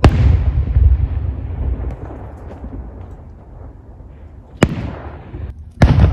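Fireworks exploding: a loud boom right at the start whose low rumble dies away over about two seconds, a sharp crack about four and a half seconds in, and another big boom near the end.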